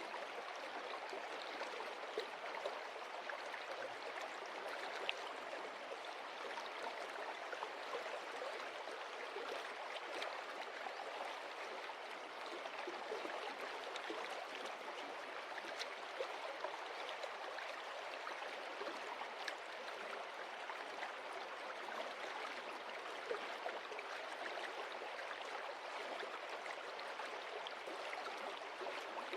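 Stream water flowing and splashing over stones: a steady rushing with small scattered splashes and gurgles.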